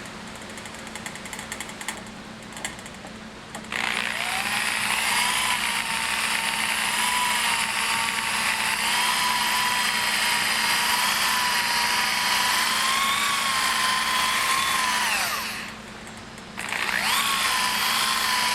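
Electric power tool spinning a buffing wheel that polishes a stave drum shell with swirl-remover compound. A high motor whine starts about four seconds in, rises to a steady pitch, and winds down about fifteen seconds in. It starts up again about a second later.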